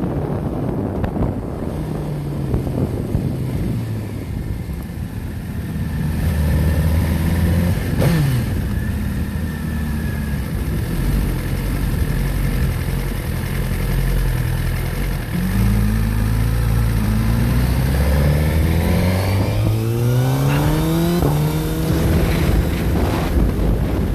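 Motorcycle engine running at highway speed with wind rushing over the microphone, its pitch rising and stepping back down several times in the second half as the bike accelerates and shifts up through the gears.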